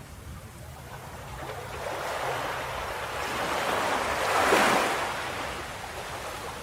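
Ocean wave breaking on a beach: the surf swells over a couple of seconds, peaks about four and a half seconds in, then washes back out.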